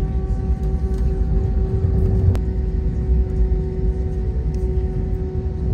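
Airbus A320 cabin noise while taxiing: a steady low rumble with a steady engine hum held at one pitch, and a single click a little over two seconds in.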